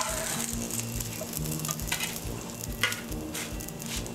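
Breaded eggplant slices frying in soybean oil in a frying pan, a steady sizzle, with a few short clicks of a metal fork against an aluminium baking tray.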